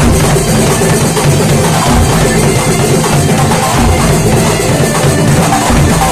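A kuntulan ensemble playing: loud, dense hand-drumming with deep bass-drum strikes and other percussion over a steady beat.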